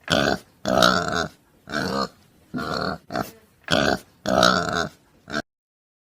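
An animal giving a rapid series of about eight short, harsh, grunt-like calls, some longer than others, which stop abruptly a little over five seconds in.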